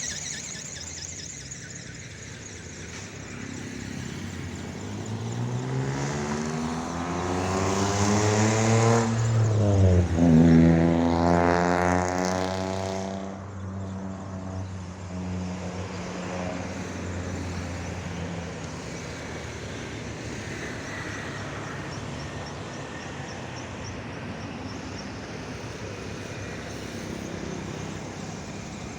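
A motor passing close by: its pitch rises as it approaches, drops sharply as it goes past, and it fades away, over a steady background hum.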